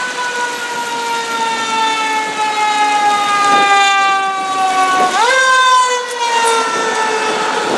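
Fire truck siren wailing: its pitch falls slowly, rises sharply about five seconds in, then falls slowly again.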